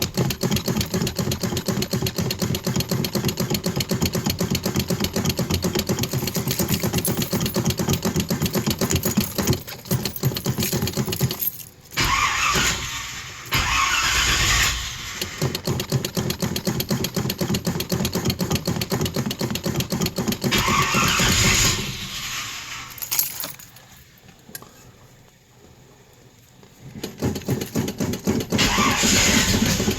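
Classic car's engine cranking on its starter motor during a cold start, a fast even chugging in several long attempts. The cranking breaks off about a third of the way in and again for a few seconds near the end, then starts again.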